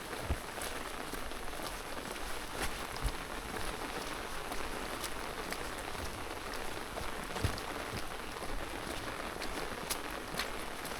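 Steady rain falling, a continuous hiss with scattered sharp drips of single drops close by and a few soft low thumps.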